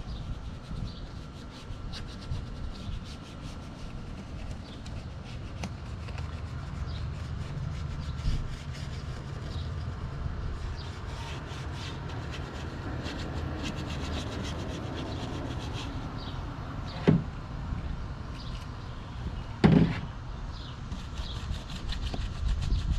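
Detailing brush rubbing and scrubbing over surfaces in a car's engine bay, with scattered light clicks and two sharper knocks near the end.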